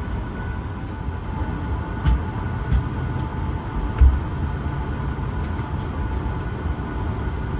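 Steady cabin hum of an Airbus A220-300 parked at the gate, the air supply and ventilation running with two faint steady whining tones over a low rumble. A few dull low thumps come through, about two seconds in, just under three seconds in, and at four seconds.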